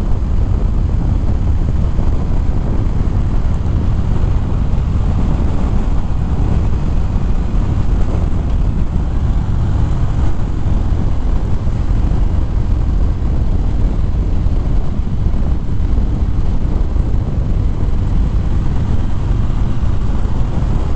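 Harley-Davidson Fat Bob V-twin under way at road speed, with its steady engine note mixed with wind noise on the microphone.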